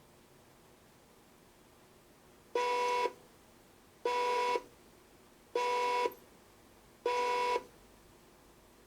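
Electronic beeper of a modified toy washing machine sounding four evenly spaced beeps, each about half a second long and about a second and a half apart, all on the same buzzy mid-pitched tone.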